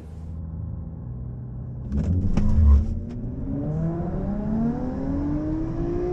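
Car engine running low, then a louder burst with a few sharp pops, then revving up with its pitch climbing steadily over a couple of seconds.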